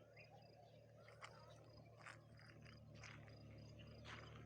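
Near silence: faint outdoor ambience with a steady low hum, a thin high pulsing tone like an insect, and a few faint short chirps.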